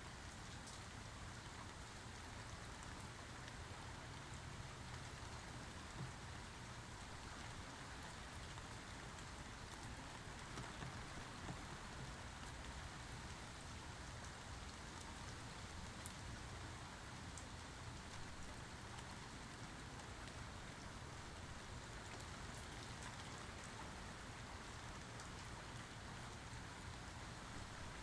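Steady rainfall, with individual drops ticking here and there over the even hiss of the rain.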